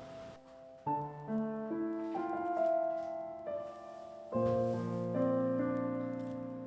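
Soft background piano music, slow chords struck one after another, the biggest fresh chord coming about four seconds in.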